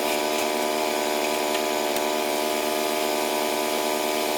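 Small gasoline engine of a portable bandsaw sawmill running steadily at a constant speed.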